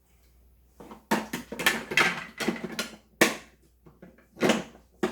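Plastic Plarail toy train track pieces clattering and clicking as they are handled and snapped together. A run of sharp knocks starts about a second in.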